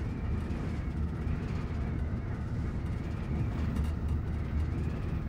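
Steady low rumble inside a railroad car, with no speech over it.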